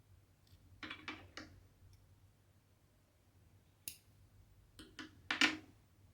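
Hand cross-stitching: short rustles and light clicks of needle and cotton thread passing through the fabric. They come in two clusters, three quick ones about a second in and a sharp click followed by several more near the end.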